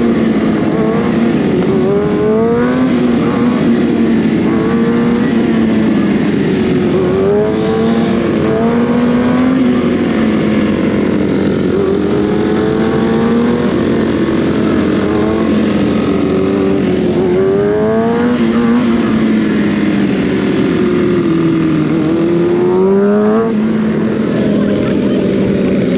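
Kawasaki 636 sport bike's inline-four engine running at speed, its pitch climbing and then dropping back several times as it revs up through the gears.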